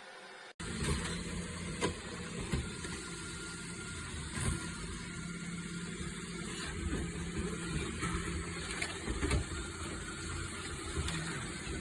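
Roborock Q7B+ robot vacuum running: a steady motor hum, with scattered small clicks and knocks. It starts abruptly about half a second in.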